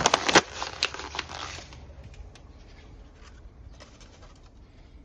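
Firewood cracking and clattering in a dense run of sharp knocks, loudest at the start, that thins out after about a second and a half into scattered faint ticks.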